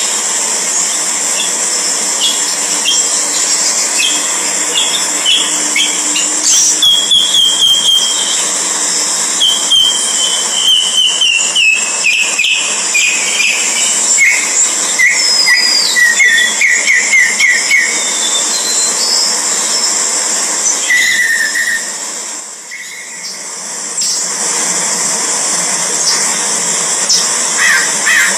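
Birds calling: runs of short whistled notes, each run stepping down in pitch, over a steady high hiss.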